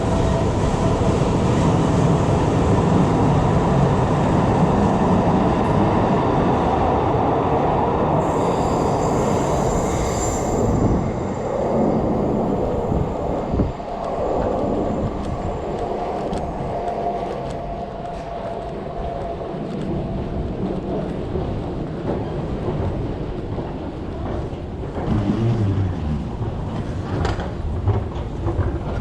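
A Tyne and Wear Metro train running on the rails, with a brief high wheel squeal about eight to eleven seconds in. The running noise then eases, and a few sharp clicks come near the end.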